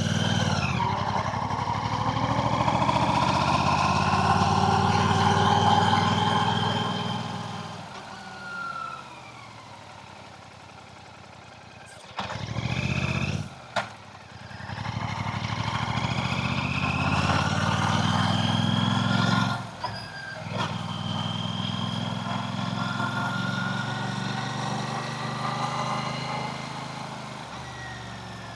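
Royal Enfield Classic 650 twin-cylinder engine running under way in two loud spells, its note gliding up and down with the throttle. A short burst of engine sound and a sharp click fall in the quieter gap between them.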